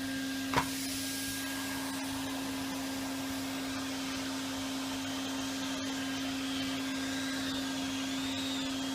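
Henry vacuum cleaner running on its low setting with a steady hum, suction too weak to pick up the crumbs well. A single click about half a second in.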